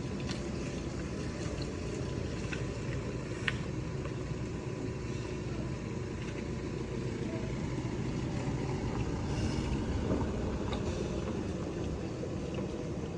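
Steady vehicle rumble with a few faint scattered clicks, cutting off suddenly at the very end.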